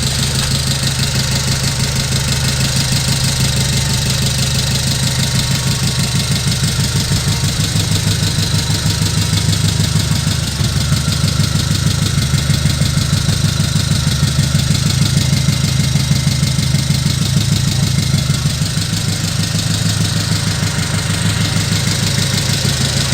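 Diesel truck engine sound idling steadily, with a rapid, even knocking pulse.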